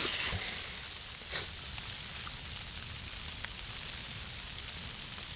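Snow falling steadily, a soft even hiss of pattering flakes, with a few faint ticks.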